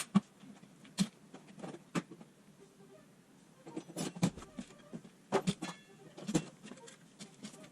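Sharp metallic knocks and clinks of tools and parts being handled on a workbench: single knocks at first, then small clusters of several, one leaving a brief metallic ring.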